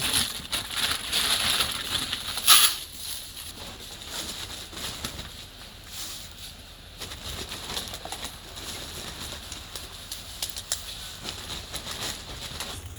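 Salt being scattered over a cleared driveway: a gritty hiss of many small pellet clicks, loudest in the first few seconds with one sharp burst, then fainter.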